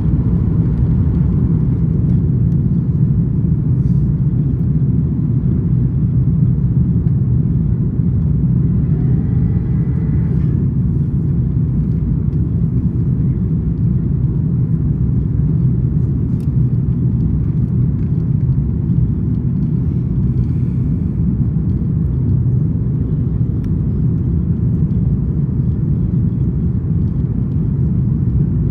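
Airbus A330-200 cabin noise: a steady low rumble of the engines and airflow heard from inside the passenger cabin.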